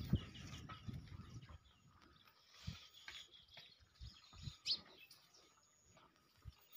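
Faint outdoor quiet with small birds chirping now and then, and a few soft, low thuds.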